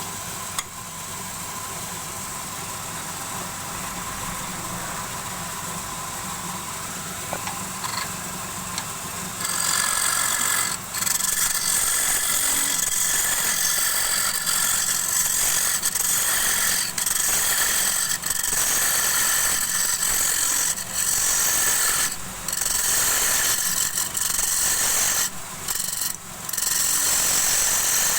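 Wood lathe running with a steady hum, then about ten seconds in a turning tool starts cutting the spinning wood, a loud scraping that breaks off briefly again and again as the tool comes away.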